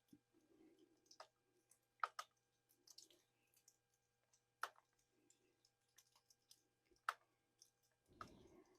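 Near silence, broken by four or five faint, sharp clicks.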